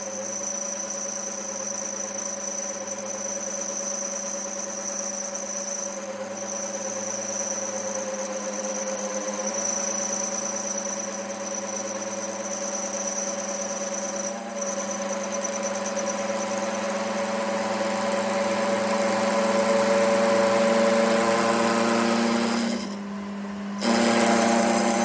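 A machine running steadily with a hum and a high whine, slowly getting louder, with a brief drop in level near the end.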